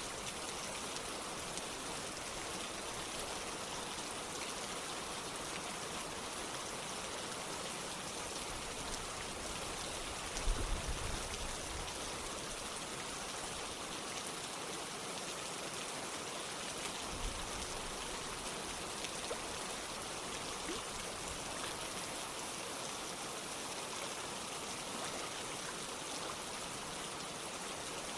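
Steady rush of running water mixed with falling rain. A brief low thump about ten seconds in, and a fainter one a few seconds later.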